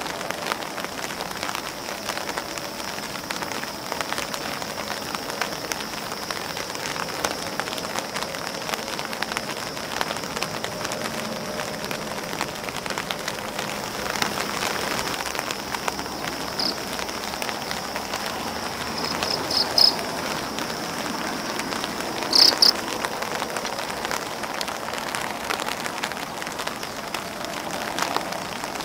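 Rain falling on an umbrella and on grass leaves: a steady hiss of rain with many separate drop ticks. A few louder short clusters of ticks come about two-thirds of the way through.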